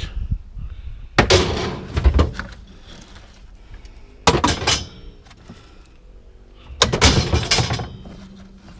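Loose scrap-metal car parts clanking and clattering as they are handled and tossed, in three bouts of about a second each.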